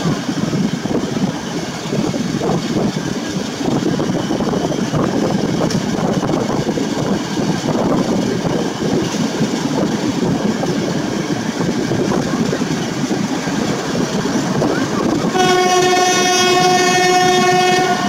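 Passenger train rolling out at low speed, a steady rumble of wheels and the SM42 diesel locomotive at its head. About fifteen seconds in, the locomotive's horn sounds one steady tone for about three seconds.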